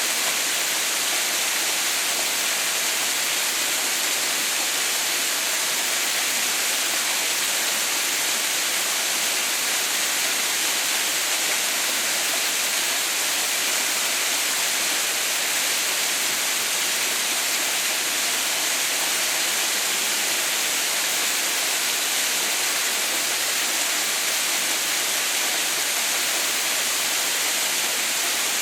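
Water pouring down a partly frozen waterfall: a steady, even rushing hiss with no pauses or changes.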